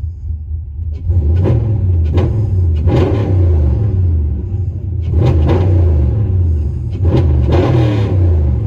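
Cammed 5.7 L Hemi V8 with long-tube headers, high-flow cats and Flowmaster Super 44 true dual exhaust, heard from inside the truck's cab: idling, then revved in quick throttle blips from about a second in, in three groups.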